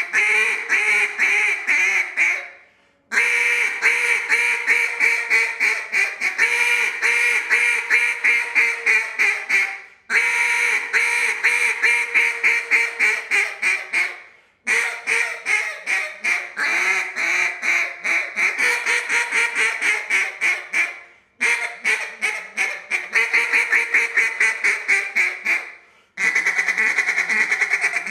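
Acrylic Cache duck call from Elite Duck Calls blown in runs of rapid, duck-like quacks, several notes a second, broken by short pauses between sequences. Near the end the notes come quicker and closer together.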